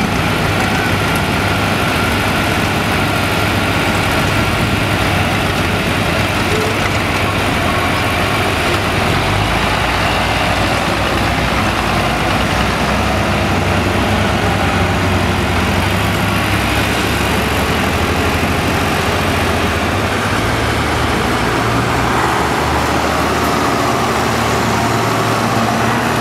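Farm tractor engines running steadily, their low engine note shifting a couple of times.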